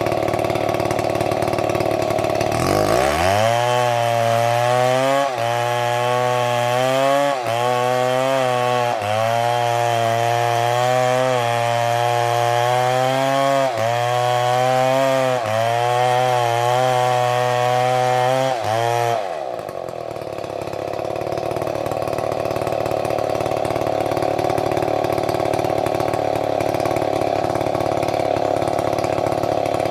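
Two-stroke chainsaw idling, then revved up about three seconds in and held at high revs for some sixteen seconds. Its pitch dips briefly every second or two as the chain loads in the wood, before it drops back to idle near the two-thirds mark.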